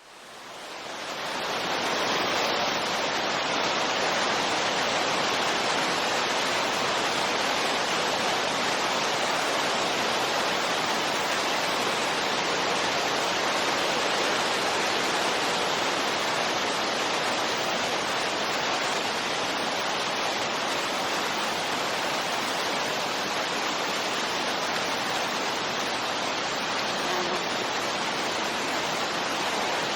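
Wind ambience as white noise: a steady, even rush that fades in over the first two seconds, then holds level with no gusts.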